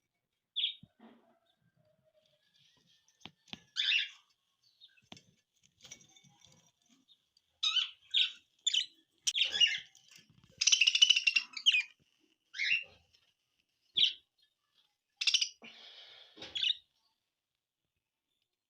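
Budgerigars chirping in short, high calls with gaps between them, with a longer run of chatter about ten seconds in.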